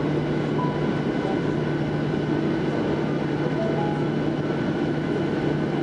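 Steady vehicle-interior hum: a constant low drone with an even noise bed.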